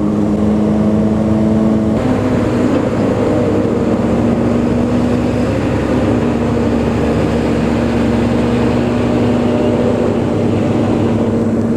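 Motorcycle engine running at a steady cruise, heard from the bike with wind and road noise on the GoPro microphone; the engine note shifts slightly about two seconds in.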